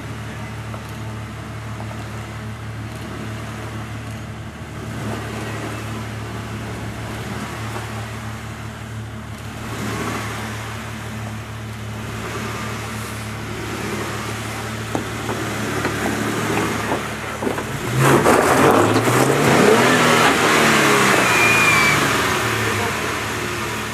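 Jeep engine running steadily at low revs, then revving up and down in louder surges from about 18 seconds in as it works up the rock ledge.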